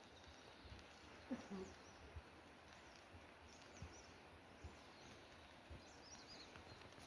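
Near silence: faint outdoor rural ambience with a few faint, short bird chirps and some soft knocks.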